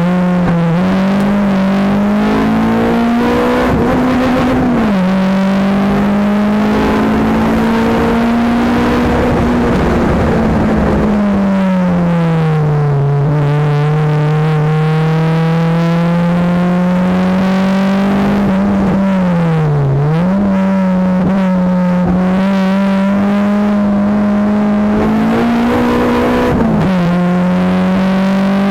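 Honda Accord Type R's 2.2-litre VTEC four-cylinder engine heard from inside the cabin at high revs under hard acceleration, its pitch climbing slowly and falling back several times at gear changes and lifts, with a quick dip and recovery about twenty seconds in, over road and wind noise.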